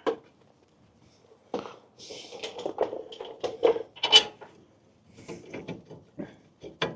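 Irregular metallic clinks, knocks and clatters of hand tools and brake parts being handled during a truck's rear brake reassembly, with sharper knocks near the start, about a second and a half in, around four seconds and near the end.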